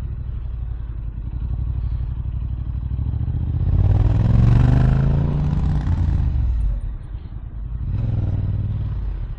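Yamaha R7's CP2 parallel-twin engine with an Akrapovic exhaust, running at low speed in traffic. A few seconds in it rises in revs and falls back, the loudest part. A smaller rise in revs comes near the end.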